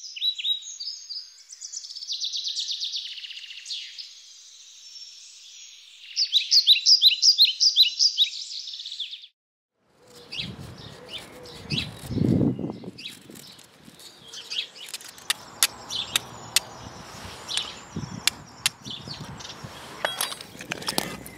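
Songbirds singing in quick chirps and rapid trilled phrases for about nine seconds, then a brief silence. After that come a dull thump and a run of sharp clicks with rustling.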